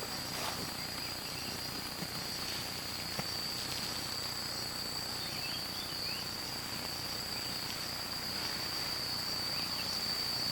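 Insects droning: one unbroken high-pitched trill holding steady throughout, with a few faint short chirps about three seconds in.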